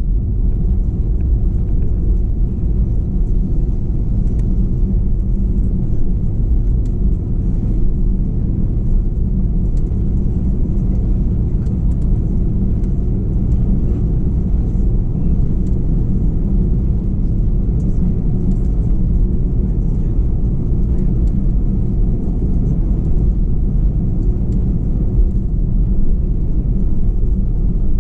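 Steady rumble inside the cabin of an Airbus A321-211 taxiing, its CFM56 jet engines at idle and its wheels rolling over the taxiway.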